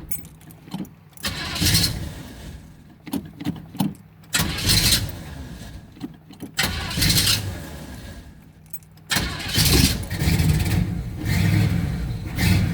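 1983 Pontiac Firebird engine being cold-started. It turns over in several short bursts that don't take, then catches about nine seconds in and keeps running, its revs rising and falling. The hard start shows it is cold-blooded on a cool morning.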